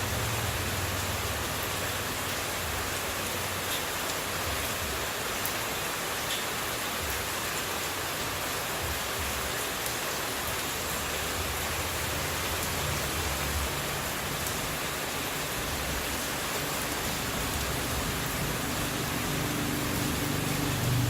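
Running water as steady white noise, an even unbroken hiss. A low rumble builds in underneath near the end.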